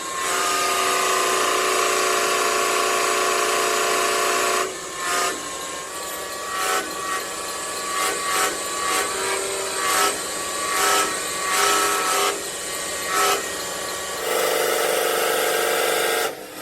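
A power tool running with a steady whine, then working in short bursts, about a dozen over eight seconds, before running steadily again near the end.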